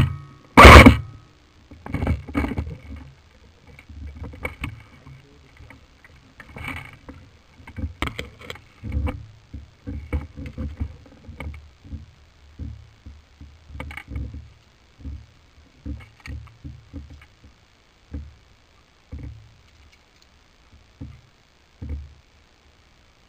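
Two loud, sharp knocks right at the start, then irregular soft thumps and rustling that thin out toward the end: movement and handling noise picked up by a camera carried on an airsoft player.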